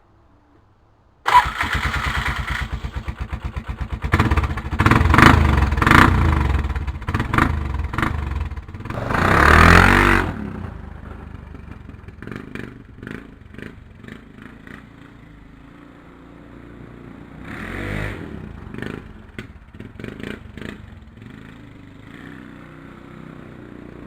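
Polaris Sportsman 500 ATV's single-cylinder four-stroke engine starting about a second in, running through a newly fitted cheap aftermarket muffler. It is revved several times, hardest around ten seconds in, then settles to a steady idle with one more short rev later on.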